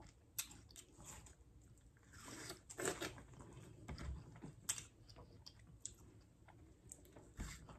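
Quiet close-up chewing of juicy yellow watermelon: scattered wet mouth clicks and smacks with a few soft crunches.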